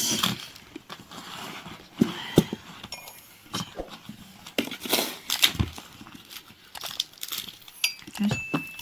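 Irregular knocks and clatter with some rustling, the sharpest knocks about two seconds in and around five seconds in.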